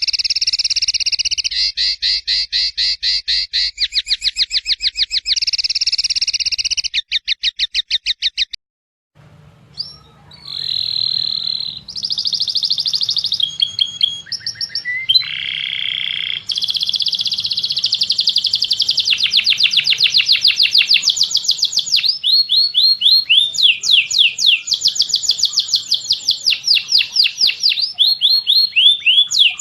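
Caged songbird song from a birdsong training recording: loud, fast repeated trills. After a brief break at about 9 seconds, a second recording follows with varied whistled phrases and rapid trills over a faint low hum.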